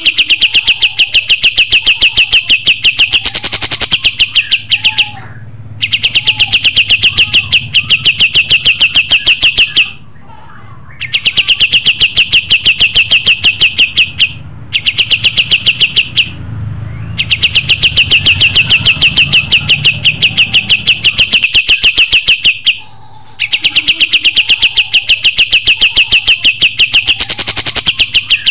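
Kapas tembak song: long trilled phrases of rapid, evenly repeated high notes, about ten a second, each phrase lasting a few seconds with short pauses between them.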